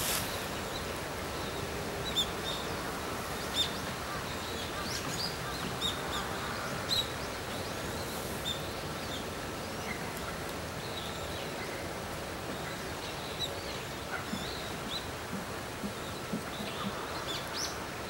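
Short, high bird chirps scattered irregularly over a steady outdoor background hiss.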